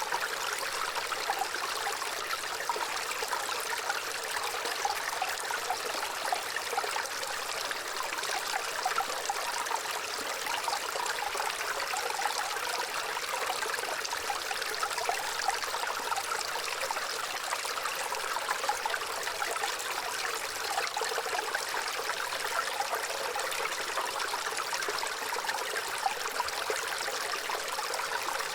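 Gently running water flowing and trickling steadily, with a light bubbling texture.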